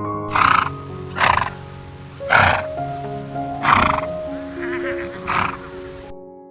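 Background music with about six short animal calls over it, roughly one a second, ending about six seconds in.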